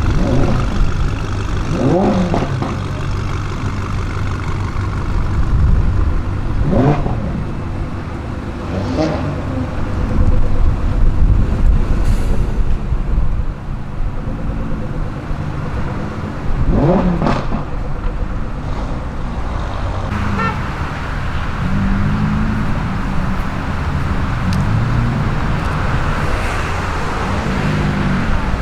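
BMW M5 F90's twin-turbo V8 through an aftermarket exhaust, revving in several short, sharp bursts that rise quickly in pitch over a steady low rumble of engine and traffic.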